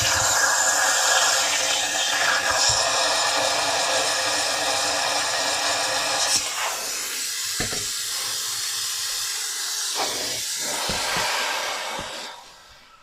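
Steam cleaner hissing steadily as it jets steam into a dishwasher drain, to force out a blockage that is keeping water in the tub. The hiss dies away near the end.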